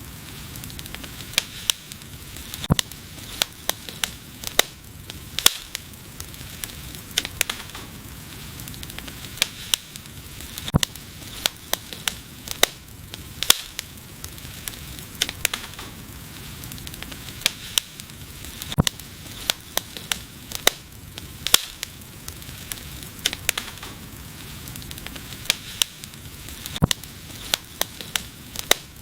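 Wood fire burning, with a steady low hiss and frequent sharp, irregular crackles and pops.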